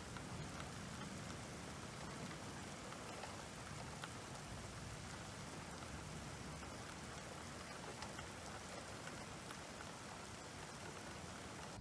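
Steady rain falling, a soft even hiss with scattered light drop ticks.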